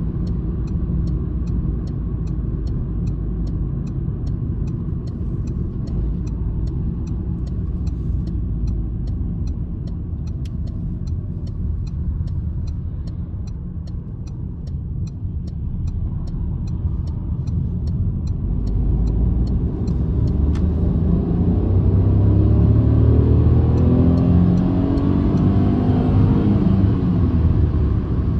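Citroen C-Elysee's 1.2 PureTech three-cylinder petrol engine and road noise heard from inside the cabin: a steady low rumble while cruising, then about two-thirds of the way in the engine pulls harder and its pitch rises under acceleration. A faint regular ticking runs through the first part and stops as the car speeds up.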